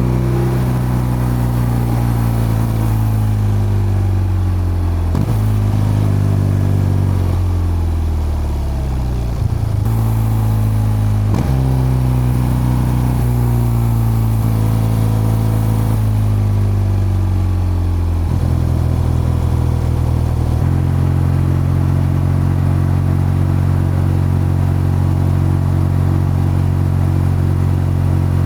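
BMW R12's boxer-twin engine and exhaust, revs falling repeatedly with short breaks between stretches as the bike slows through the gears. It then runs steadily at low revs for the last several seconds.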